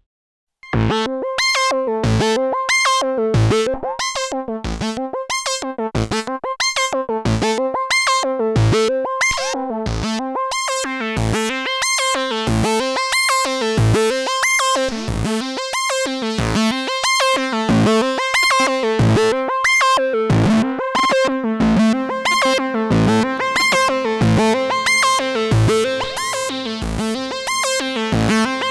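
Arturia MiniBrute 2 analog synthesizer playing a repeating sequenced note pattern, about two notes a second, with a strong buzzy tone. It starts after a moment of silence, and a lower bass part thickens the sound about two-thirds of the way through.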